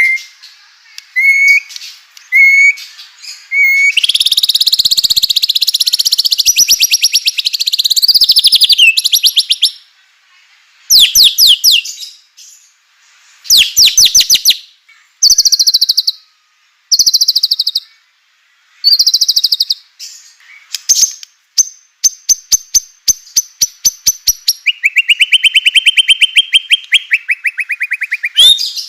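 White-rumped shama (murai batu) singing loud, varied phrases: rapid rattling trills and chattering strings of fast repeated sharp notes, broken by short pauses. A long buzzy trill falls slowly in pitch near the end.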